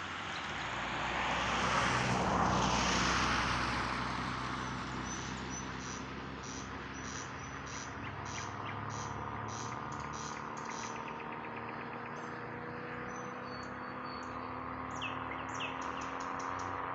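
A vehicle passes, loudest about two to three seconds in. A nightingale then sings a string of short, repeated high notes, ending in a fast run of notes, over a low engine drone.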